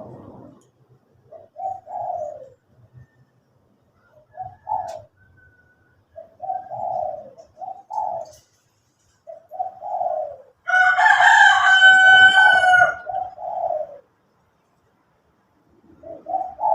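Doves cooing in a string of short, low, repeated phrases. A rooster crows once, loudly, for about two seconds, near the middle.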